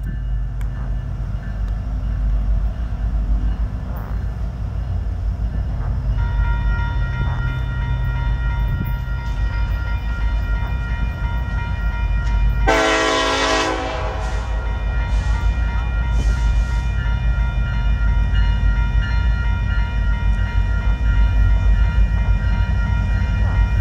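Union Pacific diesel locomotives on a stack train approaching from a distance, with a steady low rumble throughout. A short blast of the locomotive horn sounds about halfway through.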